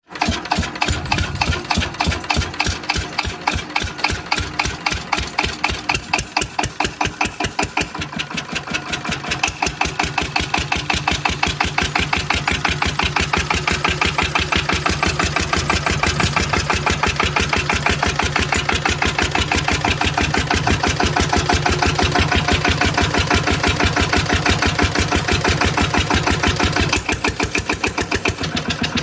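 Cunewalde 1H65 single-cylinder stationary engine running through a stainless-steel exhaust, each firing stroke heard as a separate beat. The beats are slower and uneven at first, pick up pace about nine to ten seconds in, then run steadily.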